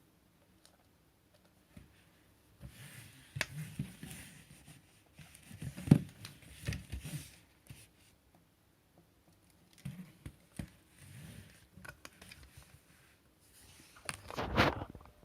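Plastic vacuum-cleaner accessories being handled: scattered clicks and knocks with short bursts of rustling. The sharpest knock comes about six seconds in, and a longer rustle comes near the end.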